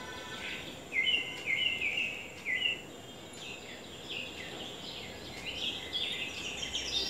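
Birds chirping: a short call repeated about twice a second for a couple of seconds, then busier, overlapping twittering.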